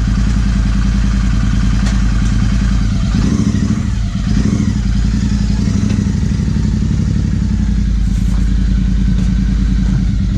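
Royal Enfield Interceptor 650's parallel-twin engine running steadily through an aftermarket MotoWings performance exhaust while the bike is ridden, with a short dip about four seconds in.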